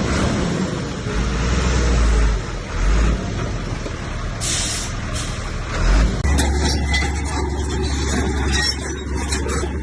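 Diesel engines of heavy earthmoving machinery running, with a short hiss of air about four and a half seconds in. About six seconds in the sound changes abruptly to a steadier low hum with many small rattling clicks.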